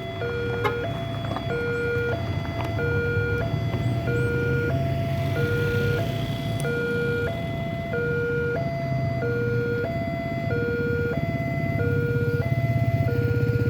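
Railway level-crossing warning alarm sounding a two-tone electronic signal that switches pitch back and forth about every two thirds of a second, warning that a train is coming. Under it, the low rumble of the approaching train grows louder near the end.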